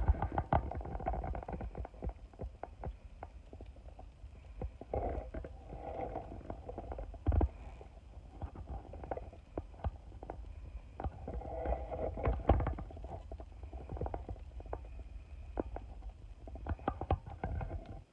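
Wood fire crackling, with many irregular snaps over a low rumble.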